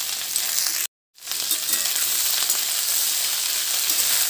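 Cut okra shallow-frying in a little oil in a stainless steel kadhai: a steady sizzle with small crackles. The sound cuts out completely for a moment about a second in.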